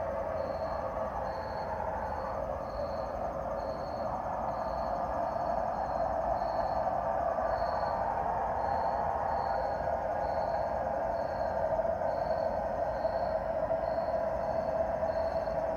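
An unexplained steady, droning hum in the sky, getting a little louder about six seconds in, with a faint high chirp repeating about one and a half times a second, like insects.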